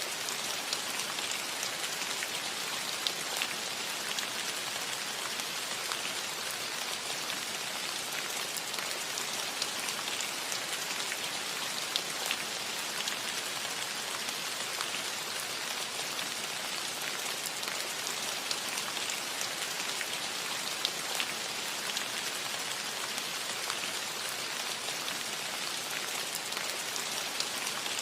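Steady rain falling on a cottage roof: an even hiss of rainfall with many small, separate drop ticks.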